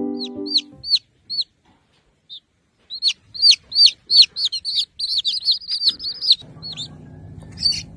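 A small bird chirping: short, high chirps that rise and fall, a few near the start, then a quick run of them about three seconds in.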